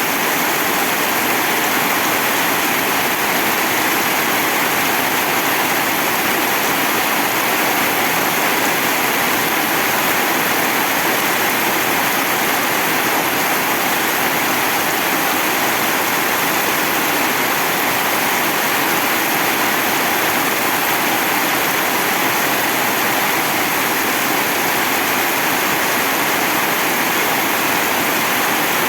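Heavy rain falling in a steady, dense hiss that neither swells nor breaks.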